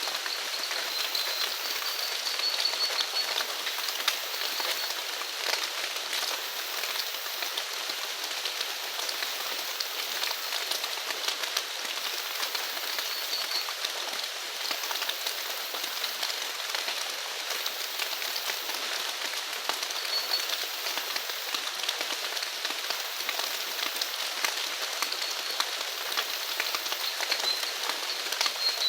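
Steady rain falling, a dense even patter of many drops. Faint short high chirps sound now and then behind it, at the start, in the middle and again near the end.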